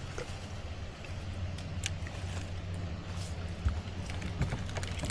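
Steady low engine hum with a few light clicks and taps over it.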